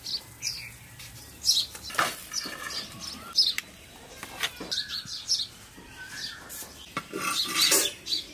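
Small birds chirping again and again, short high falling calls scattered through the whole stretch. A few sharp knocks and a louder rustle near the end.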